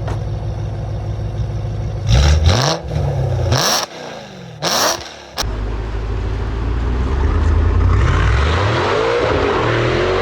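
A performance car's engine and exhaust: a steady low idle, then several quick revs a couple of seconds in, then a longer run with the engine note climbing in pitch toward the end.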